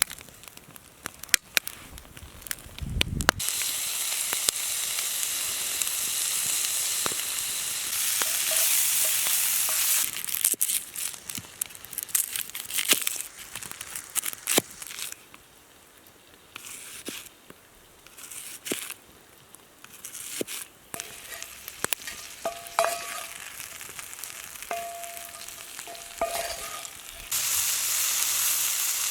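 Food sizzling in a cast iron skillet over a campfire, with scattered pops and crackles. The sizzle starts about three seconds in, falls away for a long stretch in the middle where only small clicks and crackles remain, and comes back loud near the end.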